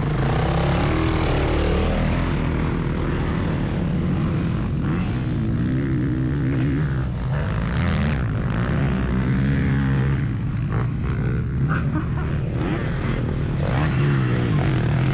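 Motocross bike engine being ridden hard, its pitch rising and falling over and over as the throttle opens and closes.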